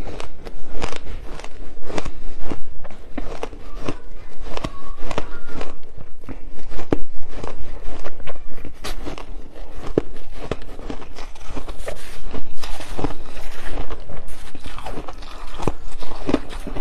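Ice being bitten and chewed: a continuous run of sharp, rapid crunches, several a second.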